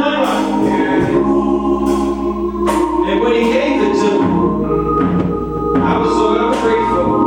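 Church organ playing sustained gospel chords that change a few times, with voices singing over it.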